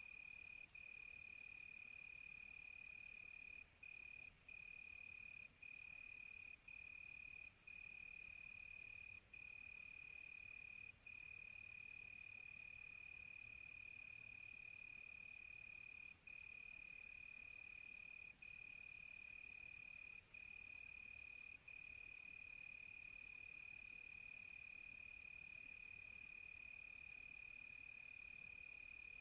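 Crickets trilling in one steady, high, unbroken note with a few very brief breaks, over a fainter, higher insect hiss.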